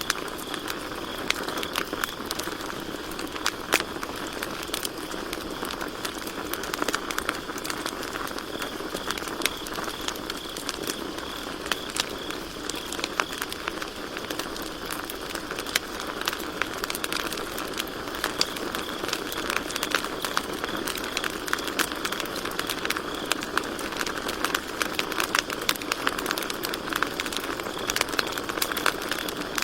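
Campfire crackling with frequent sharp pops over a steady hiss. Crickets chirp in a continuous high, pulsing trill behind it.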